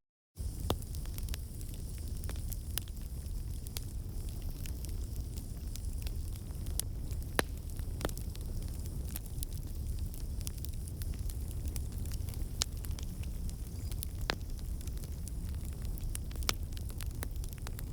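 Wood fire crackling in a fireplace: irregular sharp pops and snaps over a steady low rumble of burning. There is a split-second dropout to silence at the very start.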